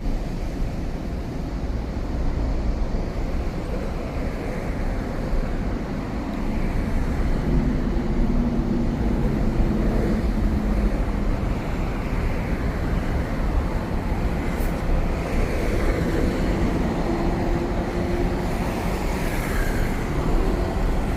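Steady outdoor city noise: a continuous low rumble of road traffic, with no clear break.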